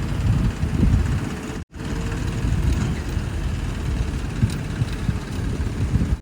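Heavy diesel machine engine running with a low, rough rumble; the sound cuts out for an instant about a second and a half in.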